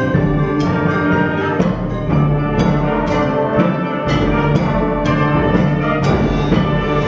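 Concert band playing a piece: sustained wind chords over a steady beat, with regular drum and percussion strokes.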